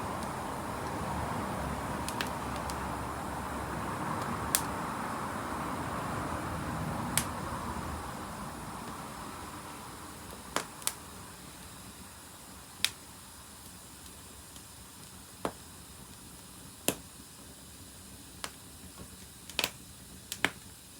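Wood fire crackling, with sharp irregular pops over a steady hiss that fades away after about eight seconds.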